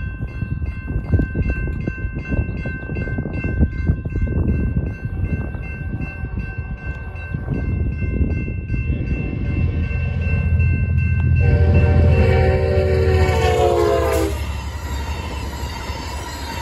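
Railroad crossing bell ringing rapidly while an Amtrak passenger train's rumble builds as it approaches. About two-thirds of the way through, the train's horn sounds one long blast of about three seconds, drowning out the bell, and then the train rolls through the crossing.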